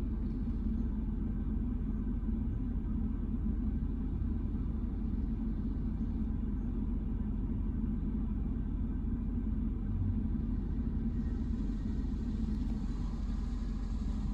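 Steady low rumble heard from inside a car, with a faint hiss coming up about eleven seconds in, from a PDQ Tandem Surfline touchless car wash running its wash cycle in an empty bay: a fault, the machine having started the cycle without a car in it.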